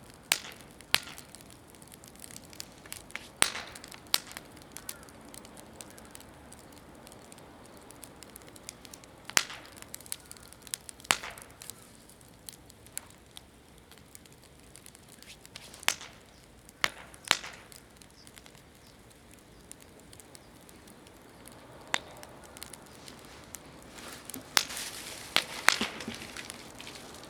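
Wood fire crackling, with irregular sharp pops every second or two and a cluster of louder pops near the end, over a faint steady hiss. The fire is burning mostly green, damp firewood.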